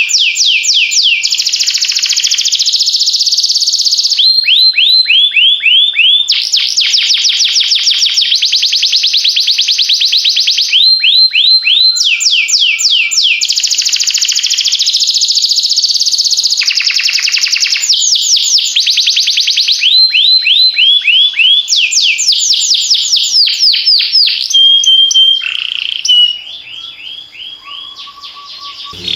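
Canary singing: loud runs of rapidly repeated, downward-sweeping notes, switching to a new run every second or two. Near the end the song turns quieter, with a few short steady whistles.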